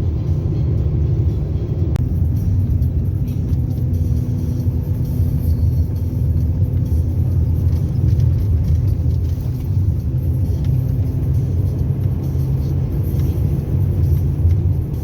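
Car driving slowly on an icy, snow-covered road: a steady low rumble of engine and tyres with a faint even hum.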